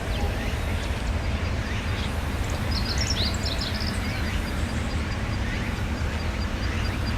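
Outdoor ambience: a steady low rumble, with birds chirping briefly about three seconds in and a faint high chirp repeating about five times a second.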